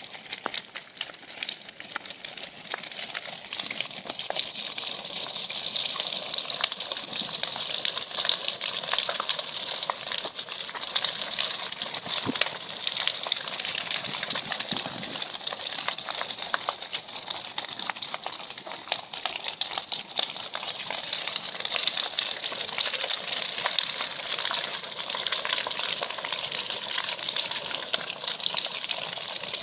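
Large fire of burning logs crackling, with a steady hiss and dense, fast crackles throughout.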